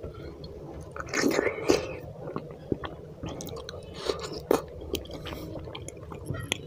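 Chewing and mouth sounds of hand-eaten rice with egg curry gravy, a run of many short clicks with louder clusters about a second in and around four seconds in, along with fingers squishing rice into the gravy on the plate.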